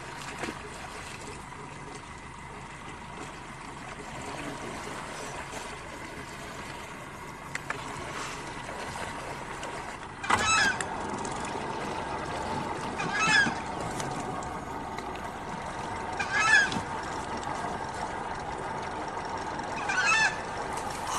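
A bird's high, wavering honking call, four times about three seconds apart, over a steady background hiss and hum.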